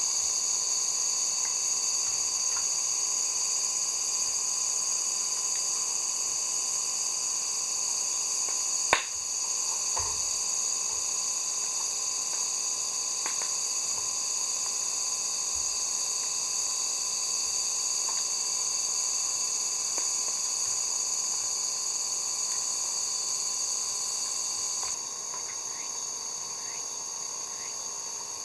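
Steady chorus of summer insects shrilling at several high pitches, with a sharp click about nine seconds in and scattered faint ticks; a few seconds before the end the chorus drops a little in level.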